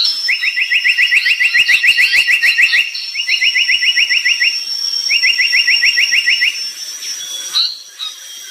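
Brown tali pocong bird singing: three fast rattling trills of short, evenly repeated notes, each trill a second or more long, about nine notes a second. A steady high-pitched tone runs underneath, with a few scattered higher chirps.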